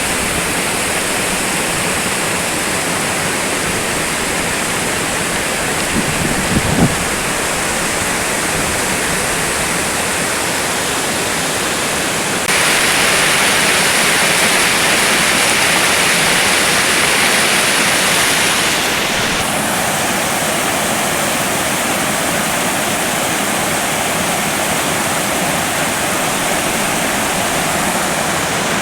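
Waterfall rushing with a steady hiss of falling water. For several seconds in the middle it grows louder and brighter, then settles back. About six seconds in there is a brief low rumble.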